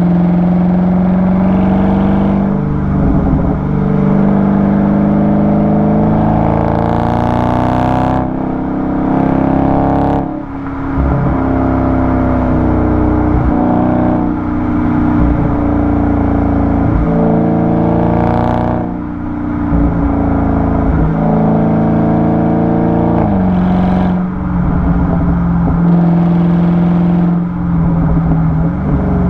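Dodge Charger 392's 6.4-litre Hemi V8 exhaust, heard right at the tailpipe as the car is driven. The revs climb and fall, with short sharp drops in level about ten and nineteen seconds in.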